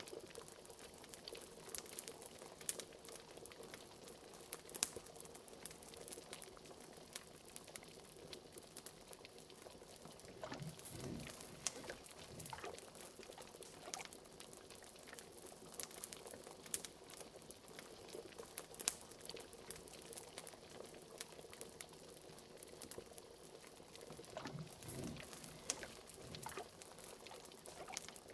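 A cauldron of liquid bubbling at a low boil over a wood fire, with the fire's sharp crackles scattered throughout. Deeper glugging bubbles rise about ten seconds in and again near the end.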